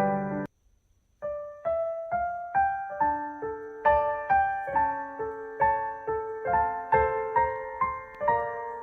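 Gentle piano music: the playing cuts off about half a second in, a second of silence follows, then a new piano piece starts with single notes struck about twice a second, each ringing and fading.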